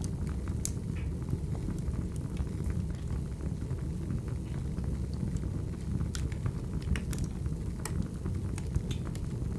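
Wood fire burning: a steady low rumble of flames with sharp crackles and pops scattered through it.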